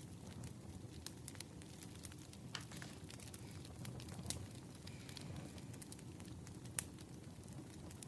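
Wood fire burning: a soft low rumble with scattered sharp crackles and pops, one louder pop near the end.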